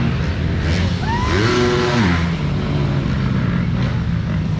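Motocross bike engines running, with one revving up and falling back about a second in.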